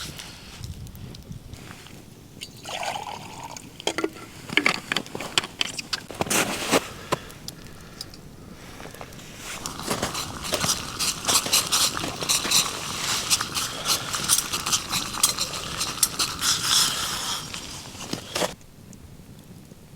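A few knocks, then liquid being poured into a container for about eight seconds before it stops suddenly.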